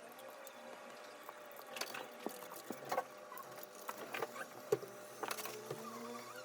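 Light, irregular clicks, taps and scratching of small repair tools handling an iPod Touch and its parts.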